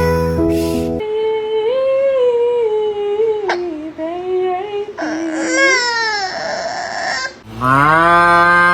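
A snatch of music cuts off about a second in, followed by a baby crying in long, wavering wails. Near the end a louder, lower drawn-out tone comes in.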